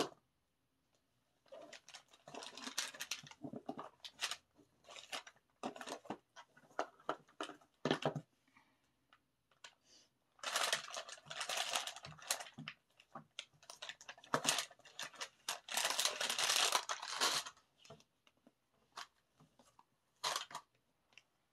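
Packaging being handled: irregular rustling and tearing with scattered clicks and knocks, in longer stretches about two, ten and fifteen seconds in.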